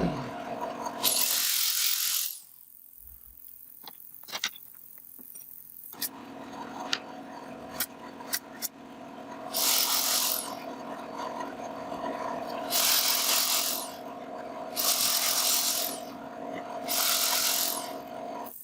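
Rasping, scraping strokes on wood, each about a second long and a few seconds apart, with a few light clicks between them and a faint steady hum underneath.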